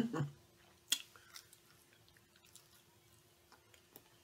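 Faint mouth sounds of someone chewing a bite of glazed chicken drumstick: scattered lip smacks and small wet clicks, the sharpest about a second in. A faint steady hum runs underneath.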